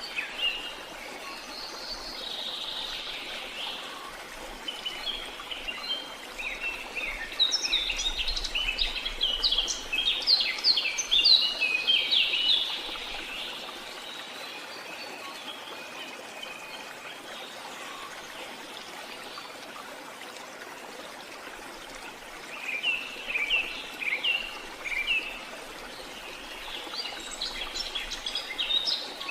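Steady rush of running water, with birds chirping over it in flurries: a long busy flurry from about a quarter to nearly halfway through, then shorter ones later and near the end.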